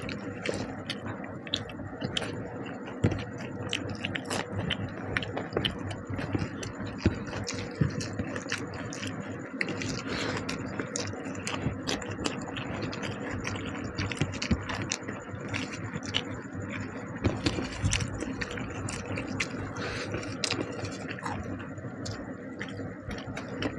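Close-miked eating: a person chewing a mouthful of fish curry and rice, with frequent irregular wet clicks and small scrapes.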